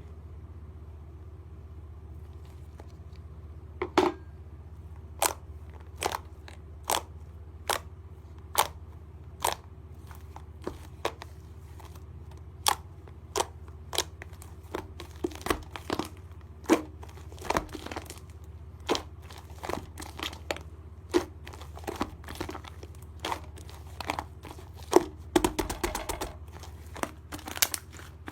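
Clay slime being squeezed and pressed, giving sharp crunchy pops about once a second from about four seconds in, coming faster and in clusters near the end, over a steady low hum.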